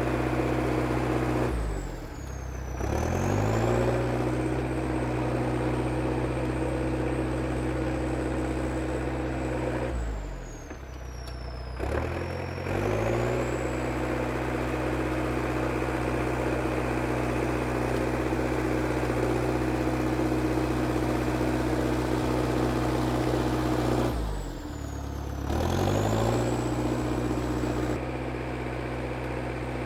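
International Harvester TD8E crawler bulldozer's diesel engine running steadily. Its speed drops sharply and climbs back three times, about 2, 11 and 25 seconds in, with a high whine that falls and rises along with it.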